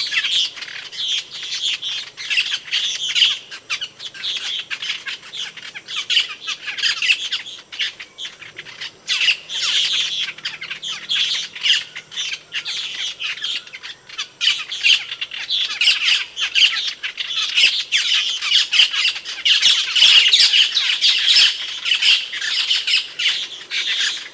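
Asian glossy starling calling: a continuous, dense stream of sharp, loud, quick chirps and squawks.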